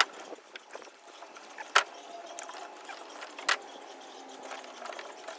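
Handling the copper winding of a welder transformer coil: light crackling and rustling, with three sharp metallic knocks spaced a little under two seconds apart.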